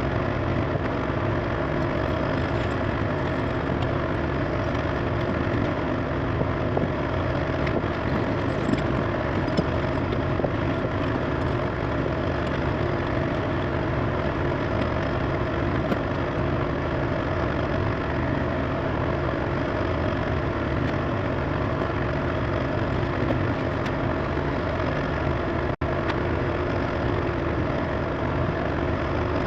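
Heavy diesel engine idling steadily, with a split-second dropout in the sound near the end.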